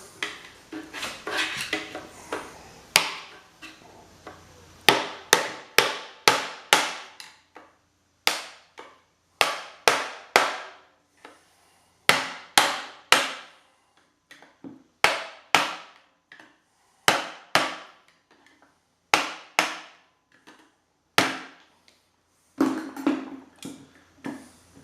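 Repeated hammer blows knocking the end bell off an electric pump motor's housing, in bursts of two to six strikes about three a second with short pauses between, then a brief clatter near the end as it comes loose.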